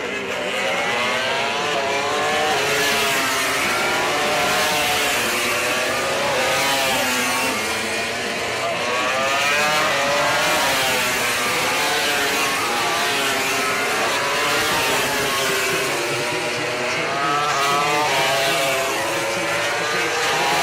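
MotoGP racing motorcycle engines at race speed, revving up and down through the gears, their pitch rising and falling every second or two.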